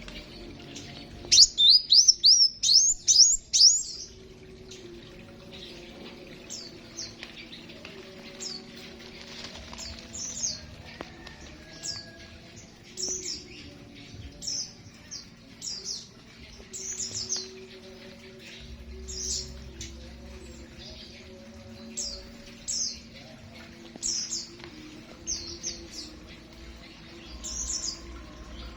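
Small aviary birds chirping. A quick, loud run of high chirps comes about a second in, then short chirps follow about once a second over a faint steady low hum.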